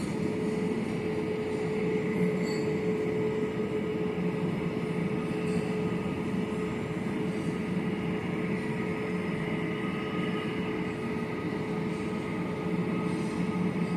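Steady mechanical drone with a constant mid-pitched hum and no breaks or sudden events.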